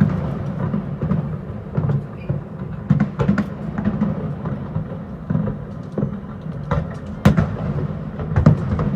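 Fireworks bursting at a distance: irregular bangs and booms echoing over a continuous low rumble, the sharpest bang about seven seconds in.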